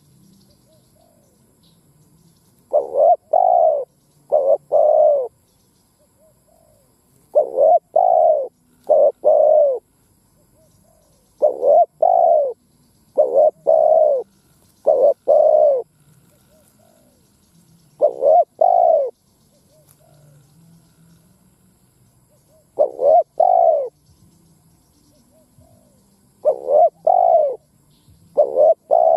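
Spotted dove cooing: a decoy male's song, repeated phrases of a few deep, rounded coo notes, one phrase every few seconds, about seven in all.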